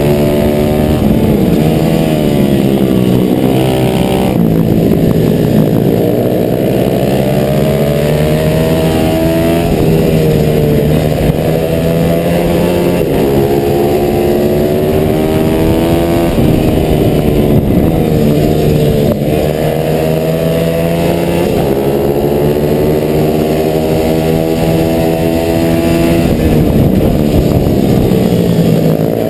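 Stock 140 pit bike's small single-cylinder four-stroke engine racing at high revs, heard from a camera mounted on the bike. Its pitch climbs as the rider accelerates and drops back sharply on gear changes and braking, over and over.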